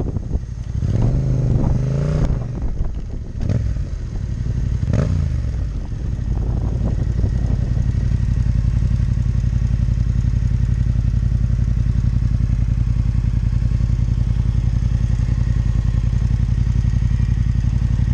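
Yamaha MT-07 Tracer's parallel-twin engine rising and falling in pitch in the first few seconds with short throttle blips, then idling steadily with an even pulse.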